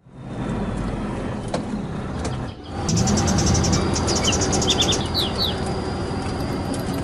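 A vehicle engine running steadily. It drops out briefly about two and a half seconds in and comes back louder, with a few quick bird chirps in the middle.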